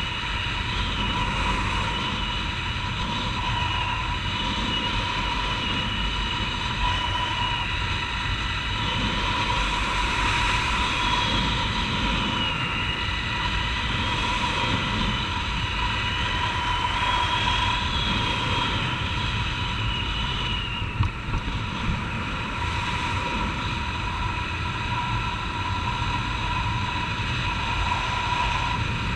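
Honda CG 150 Titan's single-cylinder four-stroke engine running at a steady riding speed, its pitch wavering slightly, with wind noise over it. One brief thump about two thirds of the way through.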